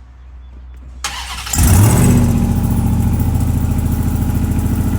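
Ram TRX's supercharged 6.2-litre V8 engine starting: it cranks briefly about a second in, catches loudly, then settles into a steady idle. The owner suspects its wastegate is stuck open.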